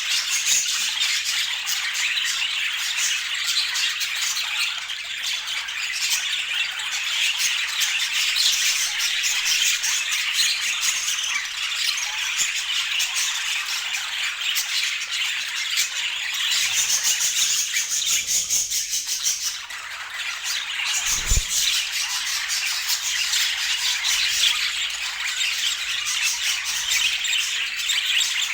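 Budgerigars chattering continuously, a busy stream of warbles, chirps and squawks. A single brief low thump about 21 seconds in.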